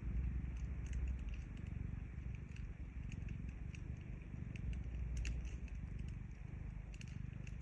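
Cat purring, a low rumble that swells and eases with its breathing, while a wood fire crackles with scattered small pops.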